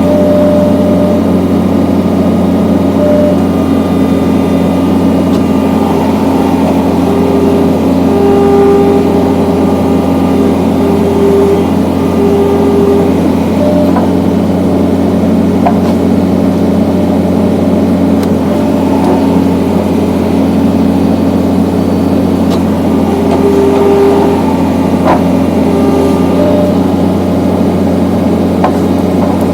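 John Deere skid steer's engine running steadily, driving a hydraulic log splitter, with higher tones coming and going over the hum and a few sharp cracks.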